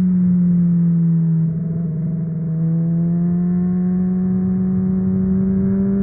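Honda CBR600RR inline-four motorcycle engine through an aftermarket MIVV exhaust, under way. The pitch sags a little, the sound drops briefly about a second and a half in, then the revs climb steadily as the bike accelerates.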